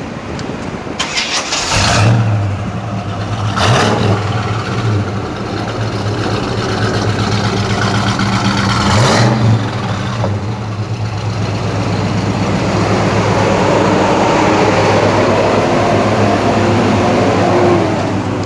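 A 1957 Chevy Bel Air's 350 small-block V8, bored 30 over, cranks and catches about two seconds in. It is blipped twice, near four and nine seconds, then idles steadily.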